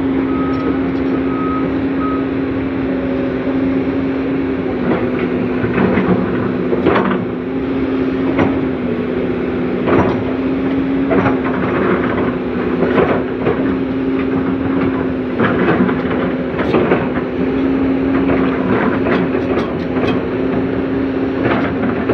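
Komatsu PC200CE hydraulic excavator's diesel engine running steadily under digging load, with repeated knocks and scrapes of the bucket working soil. A few short electronic beeps in the first two seconds.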